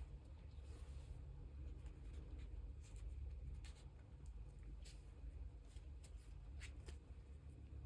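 Faint, brief scratches and rubs of photocards and plastic sleeves being handled, a few separate strokes over a low room hum.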